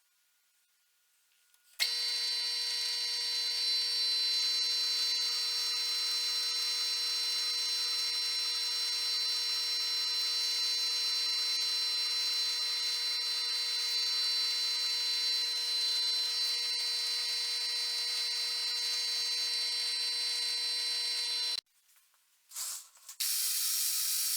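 Metal lathe running with a steady whine made of several fixed tones. It starts suddenly about two seconds in and cuts off suddenly a few seconds before the end.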